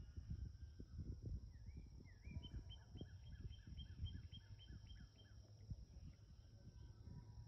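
A songbird sings a quick run of about a dozen repeated notes, about four a second, for some three seconds, over soft low knocks and rumble and a faint steady high hiss.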